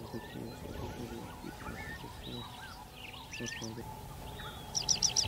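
Wild birds calling and chirping over one another, with lower repeated calls underneath. About five seconds in comes a quick run of four loud, sharp, high calls.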